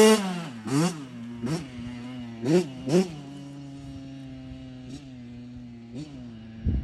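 Kawasaki KX85 single-cylinder two-stroke motocross engine being warmed up. A high rev drops away at the start, then come four quick throttle blips in the first three seconds, a steady idle, and two small blips later.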